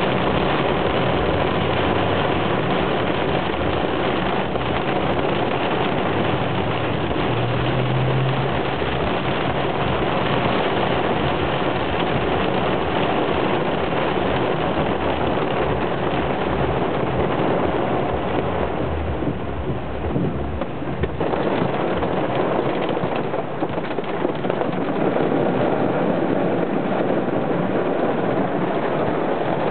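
Heavy rain drumming steadily on the car's roof and windscreen, heard from inside the cabin, over a low rumble of the car driving on the wet road that fades about two-thirds of the way through.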